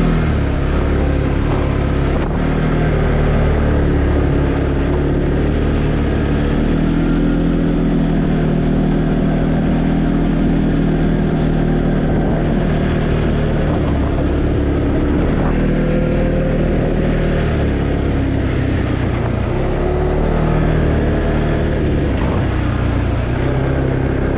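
2020 Arctic Cat Alterra 700 EPS ATV engine running while riding, its pitch drifting up and down a little with the throttle.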